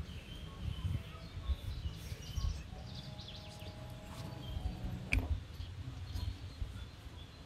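Small birds chirping and calling in the trees, with one sharper chirp about five seconds in, over an uneven low rumble on the microphone.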